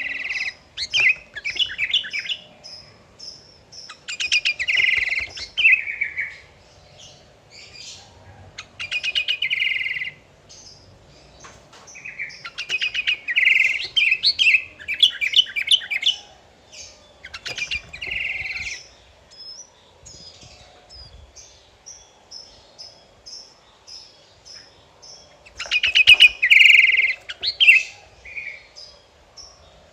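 Sooty-headed bulbul (kutilang) singing vigorously: loud, quick bubbling phrases every few seconds, with short, high chirps repeating in the gaps between them. The loudest phrase comes near the end.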